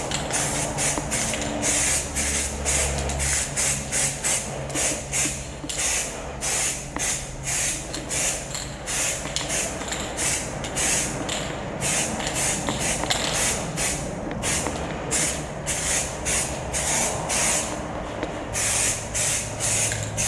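2K aerosol spray can hissing in short, rapid bursts, about two to three a second, as light dusting coats of paint go onto a motorcycle frame.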